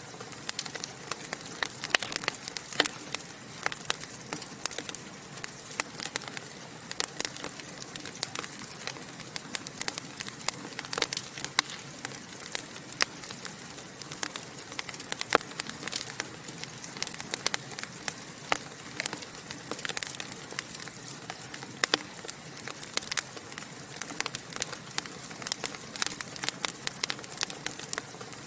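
Wood fire in a fireplace crackling, with frequent sharp pops and snaps over a soft steady hiss.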